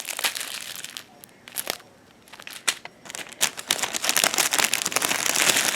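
Small plastic bags of diamond-painting drills crinkling as they are handled, with scattered sharp clicks. The handling is sparse at first and becomes denser and louder near the end.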